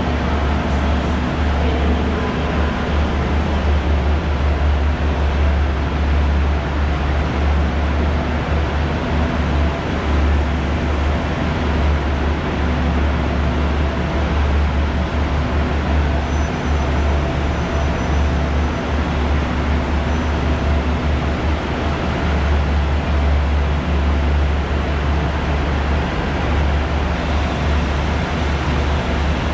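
Steady low rumbling drone of trains standing at the station platforms, with a faint hum on top in the first few seconds.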